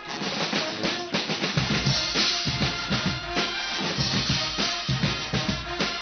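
Guggenmusik carnival band playing loudly: a drum section of snare and bass drum beats a driving rhythm under brass lines. The bass drum comes in heavily about one and a half seconds in.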